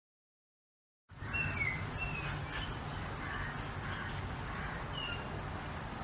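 Silence for about a second, then outdoor ambience starts: a few short, falling bird chirps over a steady low rumble.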